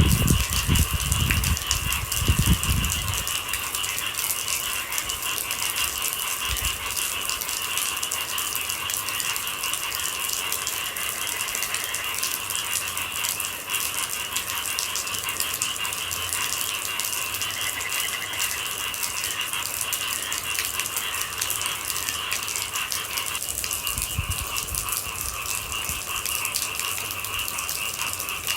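Rain falling with a steady high-pitched chirring chorus of night animals. Low rumbles come in the first few seconds and again about 24 seconds in.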